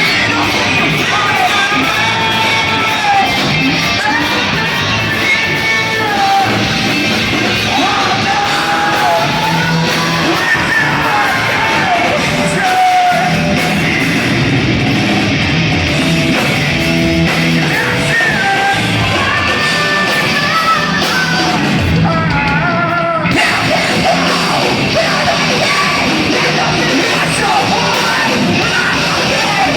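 Live post-hardcore band playing loud rock music, with sung and yelled vocals over the full band. The highest frequencies drop out for about a second some 22 seconds in.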